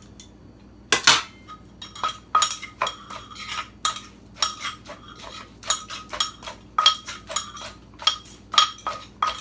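Pestle pounding and tossing papaya salad in a mortar: irregular knocks about two a second, each with a short ringing clink, the first and loudest about a second in.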